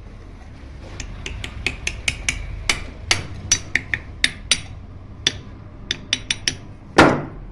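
A run of sharp metallic taps, about twenty of them, then one heavier, louder knock near the end: a part being tapped into place while reassembling a 0.5 hp water pump.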